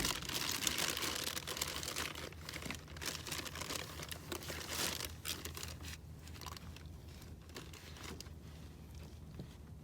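A plastic bag crinkling and rustling as it is handled, busiest in the first half and thinning out toward the end, over a steady low hum.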